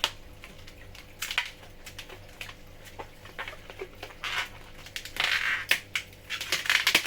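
Latex twisting balloon being handled and twisted: irregular rubbing and rustling, stronger and denser in the last three seconds.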